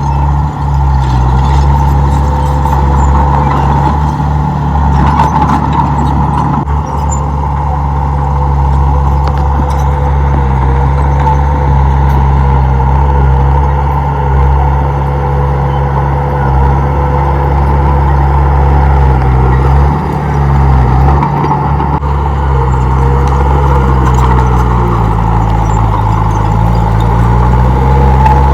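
Komatsu D31P bulldozer's diesel engine running steadily, its pitch dipping and recovering a few times in the second half as the load changes.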